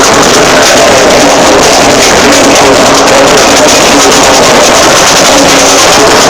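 A brass band playing loudly, with held horn notes over a steady drum beat.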